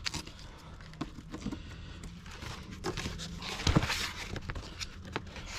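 Cardboard being peeled and scraped off cured epoxy by hand: scattered crackles, tears and scrapes, loudest a little before four seconds in.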